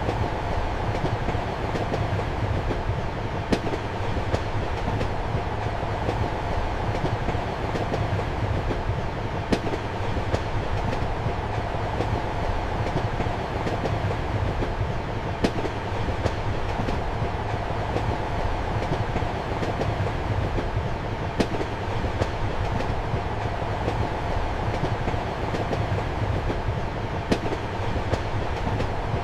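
Train carriage running, heard from inside a compartment: a steady rumble and hiss with the wheels clacking over rail joints, a sharp click about every six seconds and fainter clicks in between.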